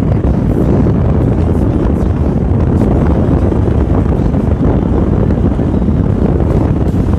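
Steady, loud wind rush buffeting the microphone of a moving motorcycle, with a low engine hum underneath.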